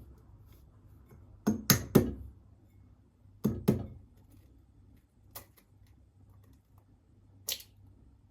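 Sharp knocks and clinks of household objects being handled: three in quick succession about one and a half seconds in, a pair at about three and a half seconds, and lighter single taps near five and a half and seven and a half seconds.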